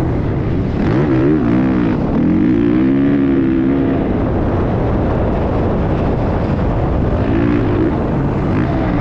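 Motocross bike engines running loud, their pitch rising and falling as the throttle is worked, over a steady dense rumble.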